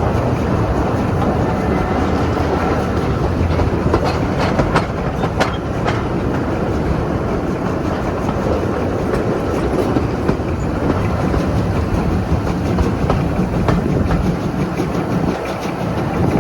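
Train running on the rails with a steady rumble and the clickety-clack of wheels over rail joints, with a few sharp clicks about four to six seconds in.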